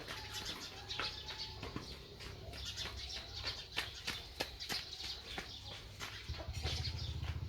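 Outdoor animal ambience: scattered short clicks and brief chirping calls, with a low rumble starting near the end.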